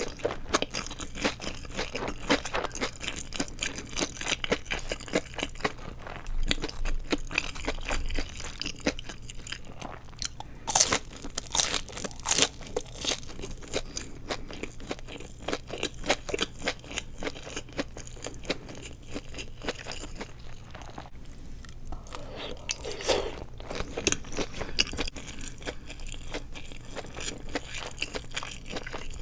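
Close-miked crunching and chewing of deep-fried seaweed rolls with a crisp fried coating, a steady run of crackly bites and chews. The loudest, sharpest crunches come about a third of the way in, with a short lull about two-thirds through.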